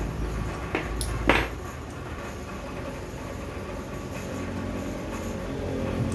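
Two or three light knocks and scrapes of metal turbocharger parts being handled, in the first second and a half, then only a steady low hum.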